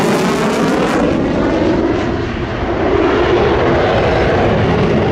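Twin-engine afterburning fighter jet flying past: a loud, continuous jet roar with a sweeping, phasing tone as it passes. The high hiss drops away about a second in, leaving a lower rumble.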